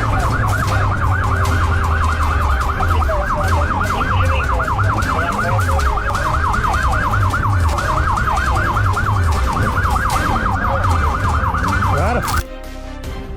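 Police siren wailing in a fast up-and-down warble, about five sweeps a second, that stops abruptly about twelve seconds in, with background music and a bass line underneath.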